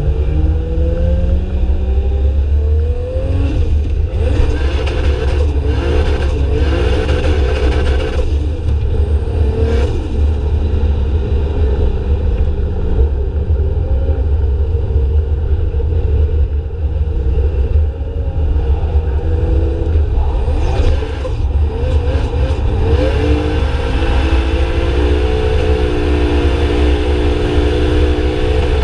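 Drift cars' engines revving hard, their pitch rising and falling over and over, over a heavy steady low rumble.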